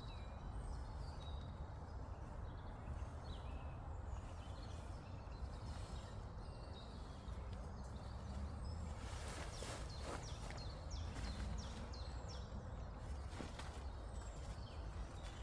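Small birds chirping repeatedly over a steady low outdoor rumble, with a brief burst of tarp rustling about nine seconds in.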